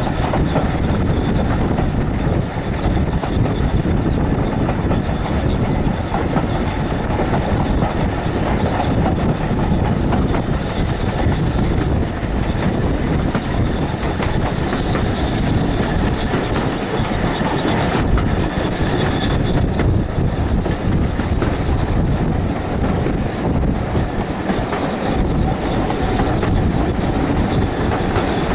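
Coaches of a moving steam-hauled train, heard from an open carriage window: a steady noise of the wheels running on the track.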